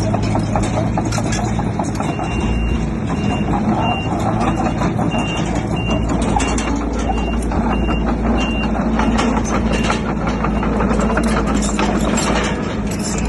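Heavy diesel earthmoving machinery running with metallic clatter. A reversing alarm beeps repeatedly from about two seconds in, stopping a couple of seconds past the middle.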